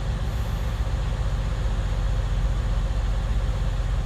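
A semi-truck's diesel engine running with a steady low drone.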